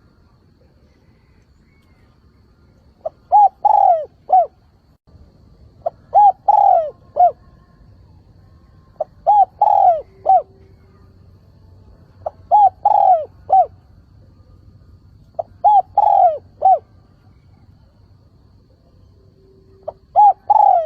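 Spotted dove cooing: a repeated phrase of a short lead note followed by a few longer coos, about every three seconds, six times with the last cut off. It is a decoy bird's territorial call, used to draw wild doves in.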